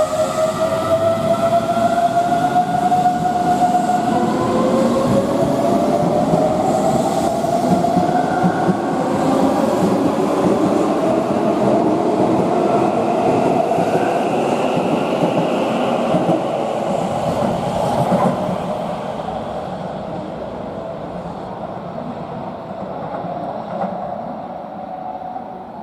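Keihan electric train pulling out of the station, its traction motors whining in several tones that climb slowly in pitch as it accelerates, with wheel and running noise. The sound fades as the train moves off.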